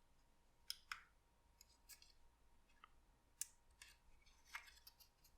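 Faint, scattered crackles and small clicks of thin card being handled and creased, about ten in all, irregularly spaced.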